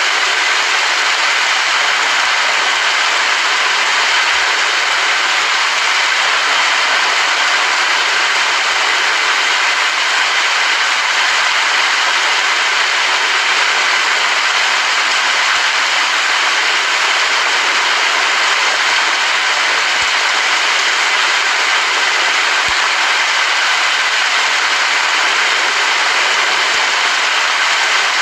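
Steady heavy rain: a dense, even hiss.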